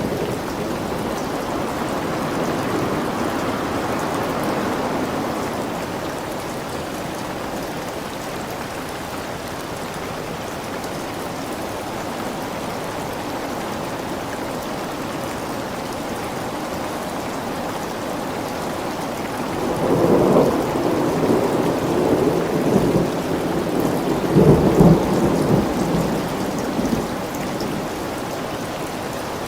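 Steady heavy rain hissing, with rolling thunder: a rumble dies away over the first few seconds, and a louder peal of thunder with a couple of cracks rolls in about two-thirds of the way through, then fades.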